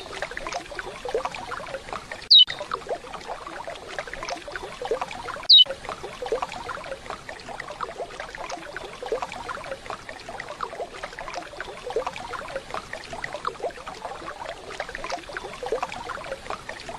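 Steady waterfall sound, with two short, loud, descending whistled calls of a curió (chestnut-bellied seed-finch) dropped in about two and five and a half seconds in.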